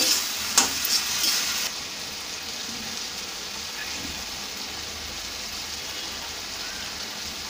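Spiced taro stolons sizzling wetly in a kadai with a little hot water added. A spatula stirs and scrapes against the pan for the first second or two, then the steady sizzle carries on alone as the mixture cooks down.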